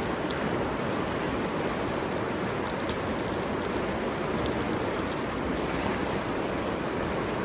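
River water rushing steadily: a constant, even noise without pauses, with a few faint ticks on top.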